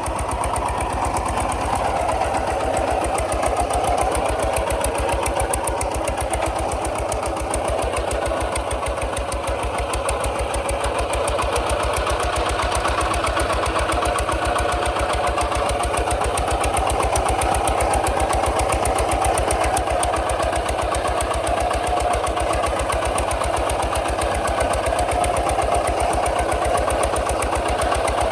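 Kubota RT 140 DI single-cylinder diesel engine running steadily, a fast, even chugging of firing strokes.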